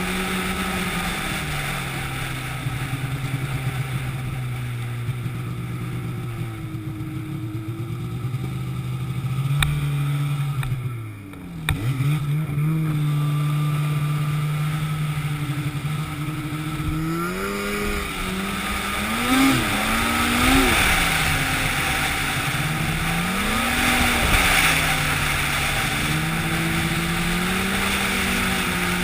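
An engine running, with a brief sharp drop in pitch and loudness about eleven seconds in, then several rises and falls in speed in the second half, over a growing rushing noise.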